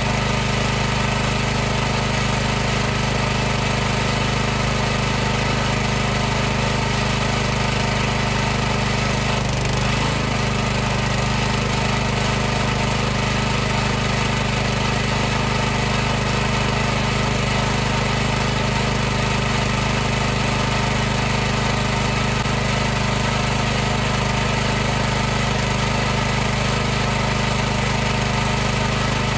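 High-pressure washer running steadily, its motor and pump giving a constant humming drone over a hiss, with a brief wobble in pitch about ten seconds in.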